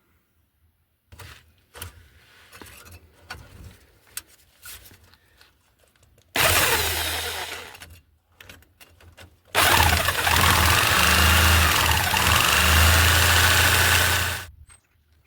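Handheld electric jigsaw cutting through a steel exhaust pipe's flexible joint: a short burst that winds down, then about five seconds of steady sawing that stops abruptly. Faint clicks of handling come before it.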